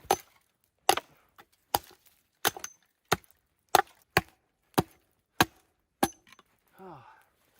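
Wood being chopped with an axe: about ten sharp, evenly spaced strikes, roughly one and a half a second. A short vocal sound follows near the end.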